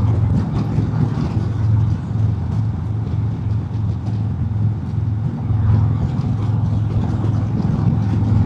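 Harley-Davidson Road King Special's Milwaukee-Eight V-twin running steadily at road speed, with wind rush on the helmet microphone.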